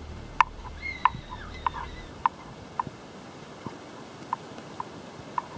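A small bird calling: a short whistled phrase with pitch glides about a second in, then repeated short single chirps at uneven intervals, with a low rumble of wind or handling noise during the first two seconds.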